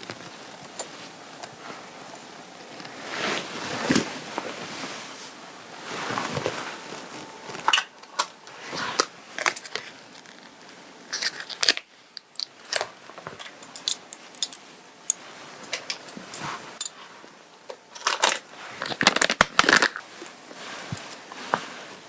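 Clothing fabric being handled and adjusted close to the microphone: irregular rustling swishes and scratchy rubs with small clicks, loudest near the end.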